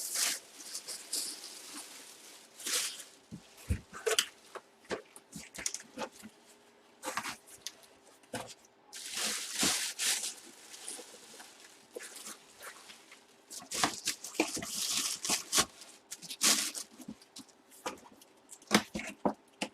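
Packaging and cards being handled at a table: irregular rustling and crinkling of plastic and cardboard with scattered taps and clicks, under a faint steady hum.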